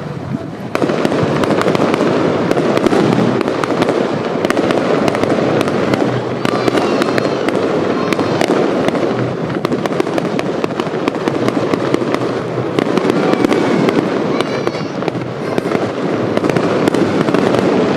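Fireworks display: a dense, continuous barrage of shell bursts and crackling, jumping sharply louder about a second in and staying loud.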